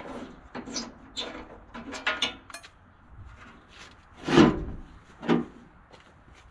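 Sheet-metal hood of an Allis-Chalmers G tractor being worked loose and lifted off: a run of short metal clanks and knocks, with a heavy thump about four and a half seconds in and a sharper knock a second later.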